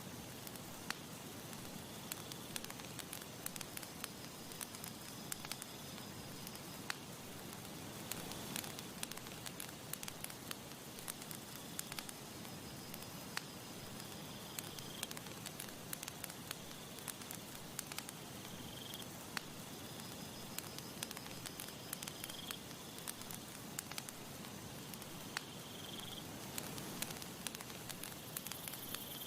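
Campfire crackling and popping with many sharp snaps over a soft hiss. In the second half a faint high chirp recurs every three to four seconds.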